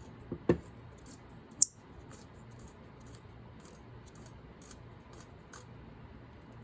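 Metal spray-gun parts handled and threaded together by hand, as the fluid adjustment knob is fitted: a few sharp metallic clicks in the first two seconds, the loudest about a second and a half in, then faint scattered ticks.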